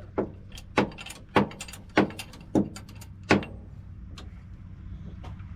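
Six sharp hammer blows on metal at an even pace, about one every 0.6 seconds, then they stop, leaving a steady low hum.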